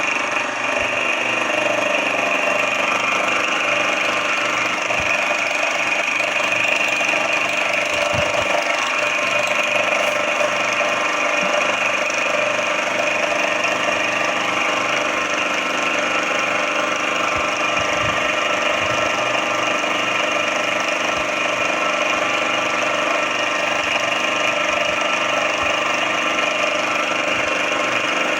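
SX2 benchtop mill-drill running steadily with an even motor whine; near the start the pitch glides as the spindle speed changes.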